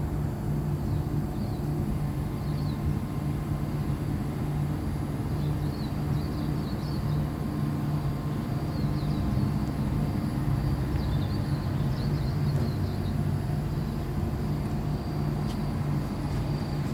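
A steady low mechanical hum that holds one pitch, with faint high chirps now and then.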